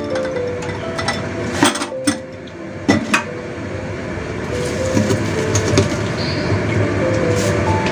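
Eggplant and minced meat sizzling and bubbling in a covered wok with a glass lid, a steady hiss broken by sharp ticks and clinks every second or so.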